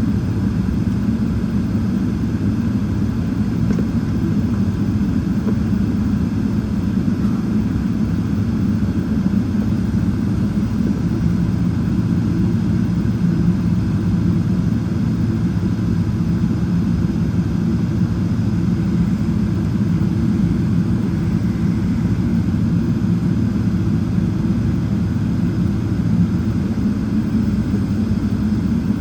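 Boeing 777-300ER's GE90 jet engines running steadily: a constant low rumble with no change in power.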